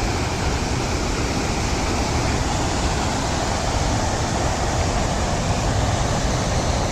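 Waterfall with water rushing down in a steady, loud roar of noise.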